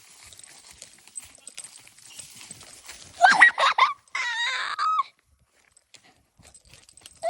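Goats bleating twice in quick succession, each a loud, wavering call, after a few seconds of faint scuffling among the animals.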